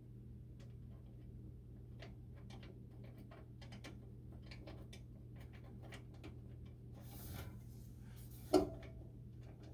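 Light scattered clicks and ticks of a screwdriver and metal parts as a furnace flame sensor is screwed back into its mount, over a steady low hum. A short rasp comes about seven seconds in, then a single sharp knock with a brief ring.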